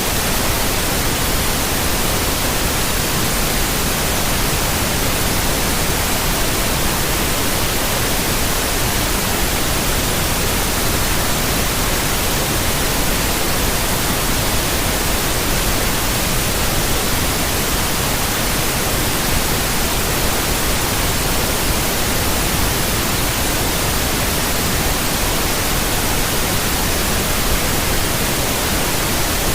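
Steady, unchanging white noise: an even hiss across the whole range, with no rhythm or change.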